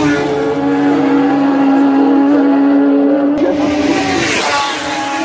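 Superbike racing motorcycle engine held at high, steady revs; the sound changes abruptly about three seconds in, then another bike rushes past at speed about four and a half seconds in.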